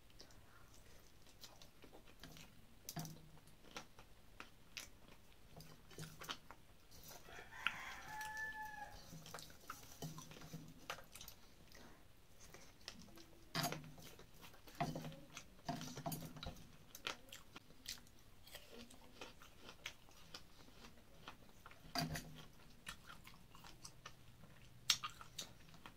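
Close-up chewing and biting of a person eating puffed-rice prasad and fruit by hand, with scattered crunches and mouth clicks. A rooster crows once about eight seconds in.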